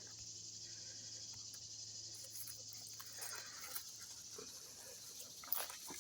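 Steady, high-pitched chorus of insects, the typical sound of southern swampland. Faint scattered rustles and ticks sound over it, more of them after about three seconds and near the end.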